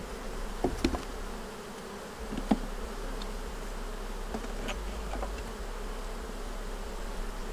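Honeybees buzzing steadily over an opened hive, with a few light clicks and knocks from a wooden frame being worked out of the box.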